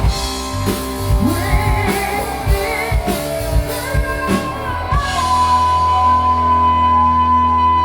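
Live rock band playing a hard rock cover: drums hitting under a sung line with vibrato. About five seconds in the drums stop and one held chord rings on steadily.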